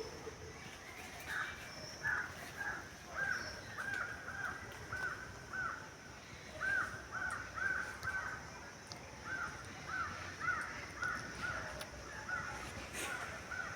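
A bird calling over and over in short calls, each rising and falling in pitch, about two a second, with two brief pauses.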